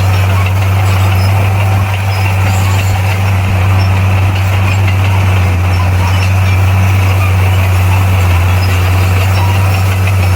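Bulldozer's diesel engine running steadily, a constant low drone with no change in pitch.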